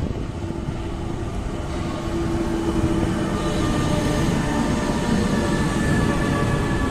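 A train running through the station, getting louder about two seconds in: a low rumble with several steady whining tones over it.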